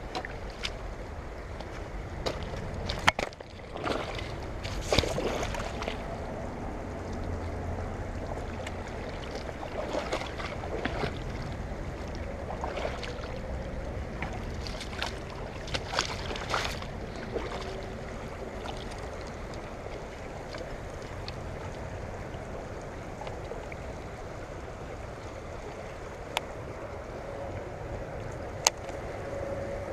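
Steady wash of moving river water and wind noise, broken by a few short sharp sounds such as splashes or clicks.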